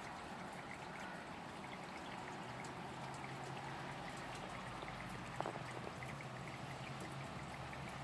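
Steady rain falling, a soft even hiss with scattered drips and a faint low hum underneath.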